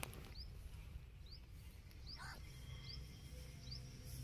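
A bird calling faintly, a short high rising chirp repeated about every 0.8 seconds, five times, over quiet open-field ambience.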